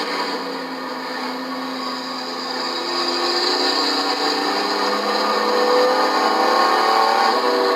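Several race trucks' engines running together on the track, their pitches rising and falling as they accelerate and lift; it swells a little louder partway through.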